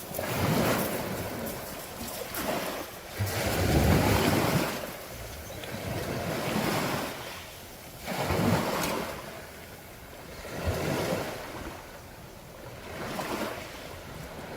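Sea waves breaking on the shore: surges of surf swell and fade every two to three seconds, the loudest about four seconds in, with some wind on the microphone.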